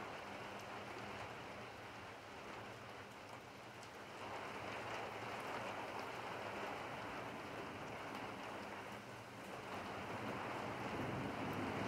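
Rain falling steadily, an even hiss that grows louder about four seconds in and again near the end.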